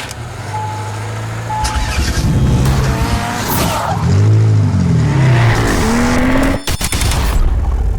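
Modified car's engine and exhaust being revved: a low burbling idle, then several revs that rise and fall back in the middle, and the rumble carries on after a brief break near the end.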